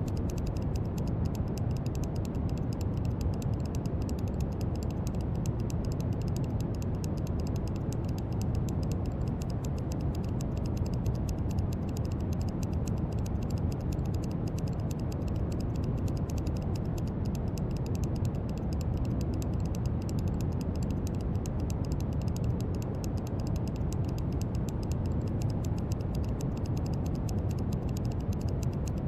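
Steady brown noise: an even, deep rushing hiss weighted to the low end, with a faint fine crackle in the treble.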